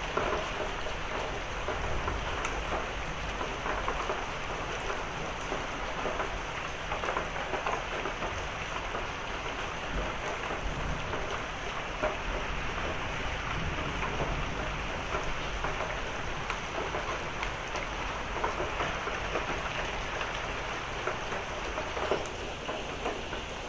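Heavy thunderstorm rain falling steadily, with scattered sharp drop hits on surfaces and a low rumble of thunder underneath.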